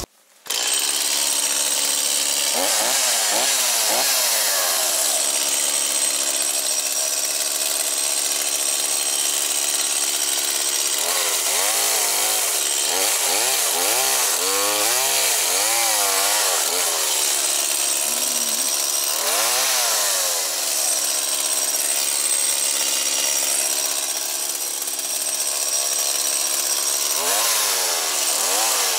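Two-stroke chainsaw running and cutting into birch wood, starting about half a second in; its engine pitch dips and climbs again and again as the chain takes and leaves the load.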